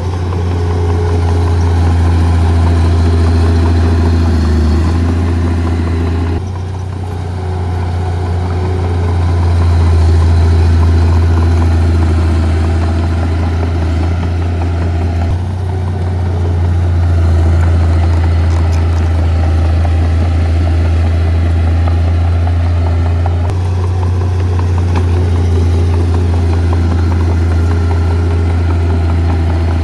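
Heavy diesel earthmoving machinery running with a loud, steady low drone. The engine note shifts abruptly about 6, 15 and 23 seconds in.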